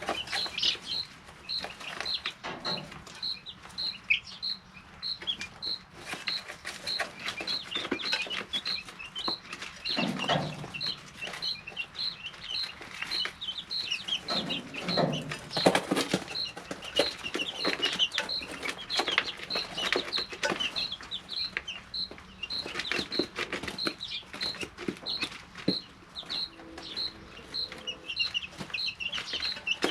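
Three-week-old chicks peeping and chirping, with a steady run of short high peeps about two a second, over frequent small clicks and scratches as they peck and move about in the brooder.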